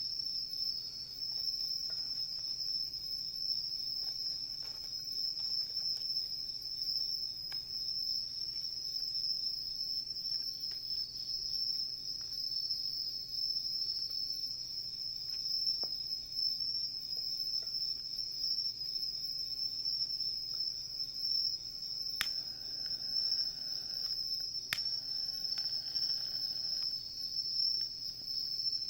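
Insects singing in a continuous, steady, high-pitched chorus, with faint scattered crackles from a wood campfire and two sharper pops near the end.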